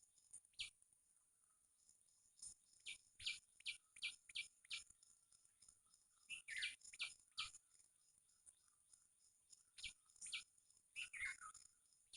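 Small birds chirping: short, quick calls in loose clusters with pauses between, over a faint steady high hiss.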